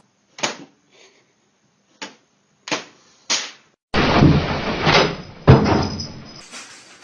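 Four short knocks, then a louder clattering rattle lasting about two and a half seconds with a hard bang in the middle of it.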